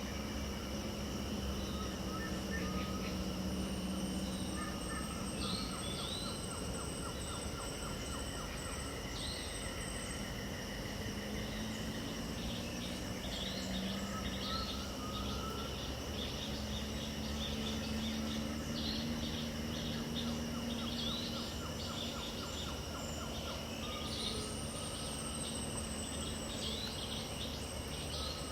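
Dawn chorus in wild wetland: a steady high drone of insects with scattered bird chirps and repeated trills from several birds, over a low hum that comes and goes.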